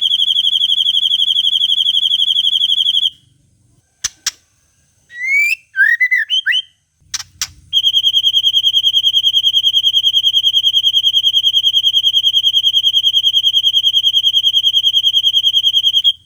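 White-rumped shama (murai batu) singing a long, fast, even high trill, the 'cililin panjang' style, on a bird-song training track. The trill breaks off about three seconds in; a few sharp clicks and short rising whistled notes fill the gap, and the trill resumes about eight seconds in and carries on.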